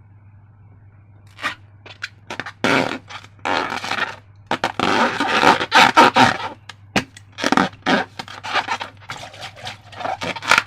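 Slime and balloons being handled and worked by hand: irregular scraping and rubbing strokes that start about a second in and grow busier, over a low steady hum.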